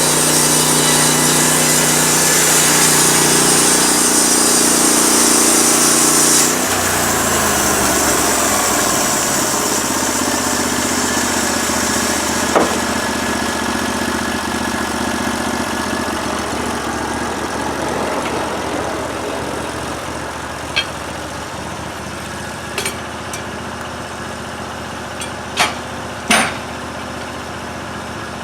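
Norwood LumberMate LM29 band sawmill's gas engine running fast for about six seconds, then throttled back, its pitch sliding down to an idle. A few sharp clicks or knocks come in the second half.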